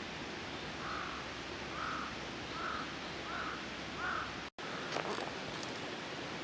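A crow cawing five times in an even series, roughly one caw a second, over a steady background hiss. Just after the last caw the sound drops out for an instant, and a few faint clicks follow.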